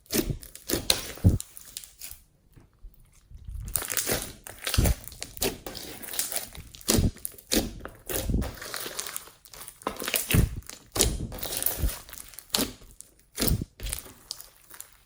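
Slime being squeezed and kneaded by hand, giving irregular crackles, pops and dull thuds, with a short lull about two seconds in.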